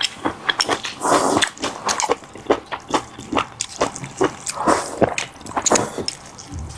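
Close-miked wet eating sounds: a person chewing garlic-sauce oysters with vermicelli, an irregular run of smacks and small clicks.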